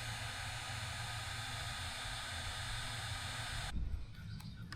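Steady whirring hiss of a power tool running, cutting off abruptly near the end.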